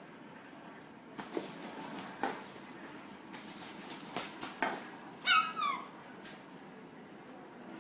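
An animal's short call falling in pitch, heard once about five seconds in, preceded by scattered light clicks and knocks.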